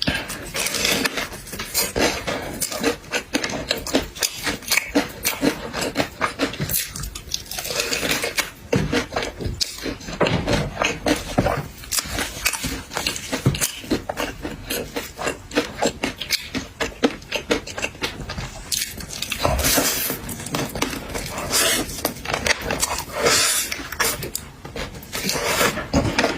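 Seafood being eaten by hand close to the microphone: a dense, irregular run of crackling clicks and scrapes as crab and shrimp shells are cracked and picked apart.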